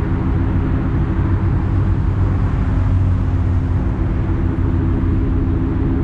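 Steady low rumble of an idling vehicle engine, with a constant hum.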